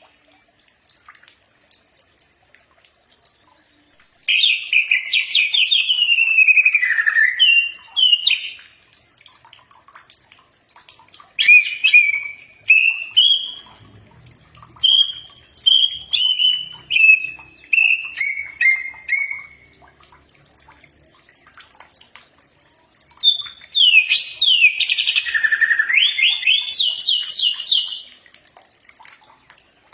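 Cucak ijo (green leafbird) singing in three bouts of rapid, varied whistled phrases. The middle bout is a run of clear notes stepping down in pitch.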